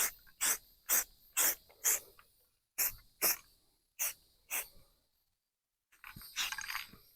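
Aerosol spray paint can sprayed in short bursts, about two a second, then after a pause one longer spray near the end.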